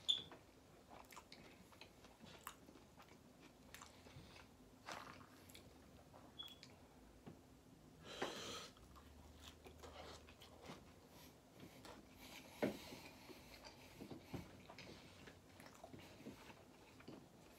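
Faint close-up chewing of a soft taco: mouth smacks, small wet clicks and light crunches of lettuce, with a slightly louder stretch of chewing about halfway through.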